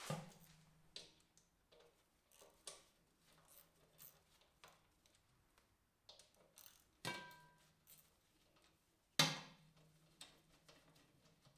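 Scattered clicks and metal clanks of hand tools and steel parts being handled, with three louder clanks that ring briefly: one at the start, one about seven seconds in and one about nine seconds in.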